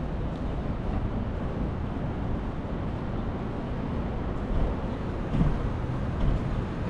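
Steady low rumbling outdoor street noise heard while riding a bike, with a few brief louder bumps in the second half.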